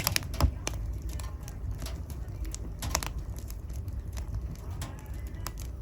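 Wood fire crackling in a fireplace: scattered sharp pops and snaps over a low steady rumble of burning logs, with the loudest cracks right at the start and about three seconds in.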